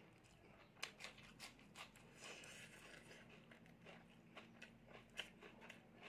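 Faint, close-up crunchy chewing of raw onion, with many short sharp mouth clicks and smacks. Soft sounds of fingers mixing rice on a metal plate.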